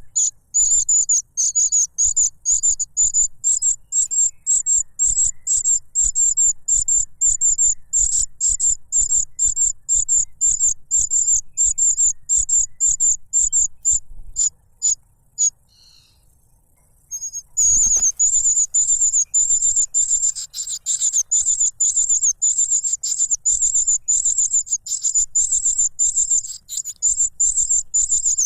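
Young cuckoo begging for food: a rapid string of thin, high-pitched calls, about three a second. It falls silent for a few seconds a little past halfway through, then starts again straight after a single thump.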